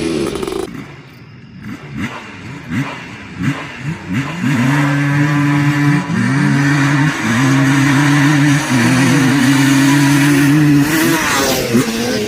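Two-stroke ATV engines, a Yamaha Banshee and a Honda 250R, revving in short blips and then accelerating hard from about four and a half seconds in. The engine note climbs, drops back at each gear shift and climbs again several times, then falls away near the end.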